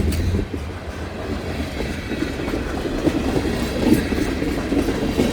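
CSX freight train cars rolling past, a steady rumble of steel wheels on the rails with occasional knocks. A low hum drops away about half a second in.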